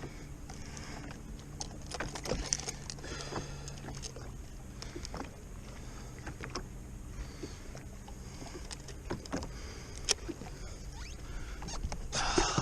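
Irregular clicks, taps and small rattles of fishing gear being handled aboard a jet ski, with a sharper click about ten seconds in and a faint low hum that fades out about halfway.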